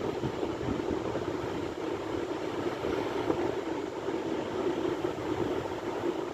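Sea waves: a steady, unbroken rush of surf with no single wave standing out.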